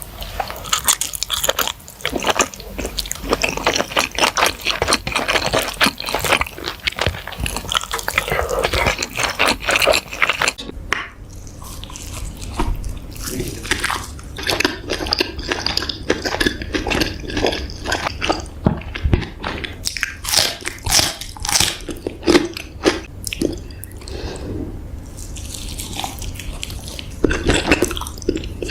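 Close-up eating sounds of spicy baby squid: steady wet chewing and biting with many small sticky mouth clicks.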